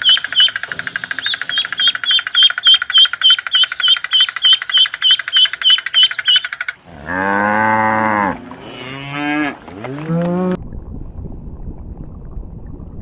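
Farm animal calls: for the first six or seven seconds a fast, steady run of short high-pitched calls. Then a cow moos once long and low, followed by a shorter gliding call. After that there is only a low background hiss.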